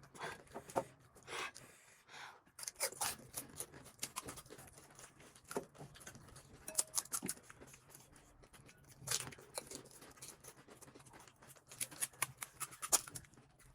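Close-miked eating of panipuri: the crisp hollow puri shells crunching and cracking as they are chewed, heard as irregular sharp crackles.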